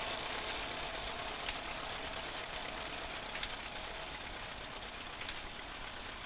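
Vintage tractor engine running steadily while pulling a reaper-binder through standing corn, with a faint sharp click about every two seconds.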